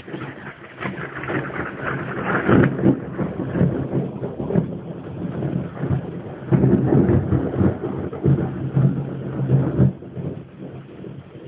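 Thunder: a sudden crack that rolls into a long rumble, swelling twice and easing off after about ten seconds. It is heard through a mobile phone's microphone, so it sounds dull and cut off at the top.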